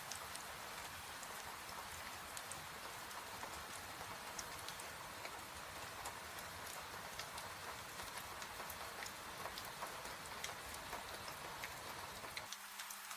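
Steady rain falling, with many small sharp ticks scattered throughout. Near the end the low rumble underneath cuts out, leaving a faint steady hum.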